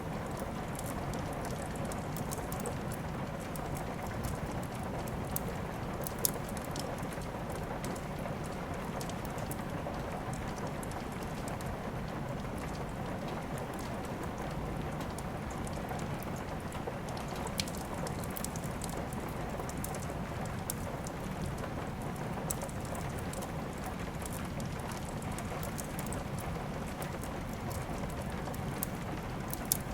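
Steady rain with a crackling wood fire: a constant rain hiss under scattered sharp pops and snaps from the burning logs, a few of them louder, about six seconds in, near eighteen seconds and near the end.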